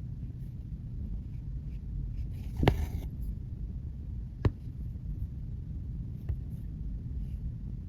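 Cross-stitch needle and floss working through fabric: three sharp taps about two seconds apart as the needle pops through, the first with a short scratchy rustle of thread drawn through. A steady low rumble of room noise lies under it.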